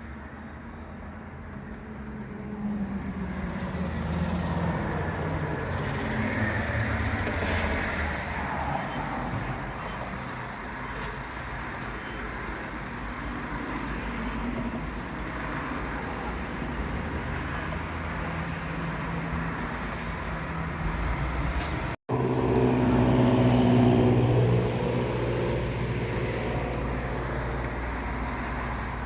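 Road traffic: motor vehicle engines passing, one falling in pitch as it goes by, over a steady rushing background. After a brief cut, a heavier vehicle's engine hums steadily for a few seconds.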